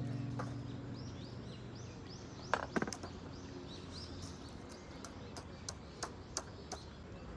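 Small birds chirping in repeated short calls, with a few sharp clicks or knocks about two and a half seconds in and again in the second half. A low sustained musical chord fades out over the first couple of seconds.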